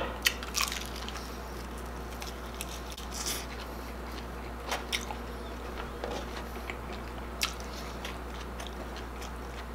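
Close-up chewing of crispy deep-fried pork intestine (chicharon bulaklak), with a few sharp crunches scattered through the chewing over a steady low hum.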